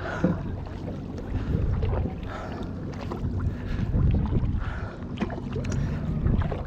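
Kayak paddle strokes dipping and pulling through river water, with wind buffeting the microphone and a low steady hum beneath.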